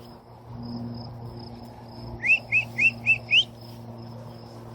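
A small bird gives five quick rising chirps in a row, about four a second, starting about two seconds in, over a faint high insect trill and a steady low hum.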